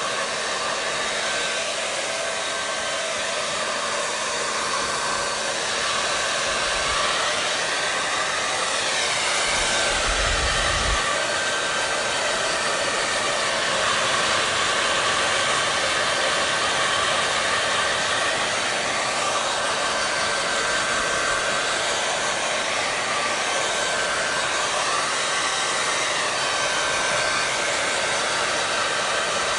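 Hair dryer running steadily: an even rush of blown air with a faint, constant motor whine, its tone shifting slowly and gently in places.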